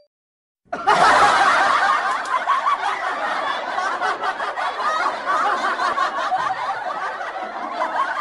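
A crowd laughing: many overlapping laughs in a dense mass that starts suddenly under a second in and runs steadily before beginning to fade at the very end.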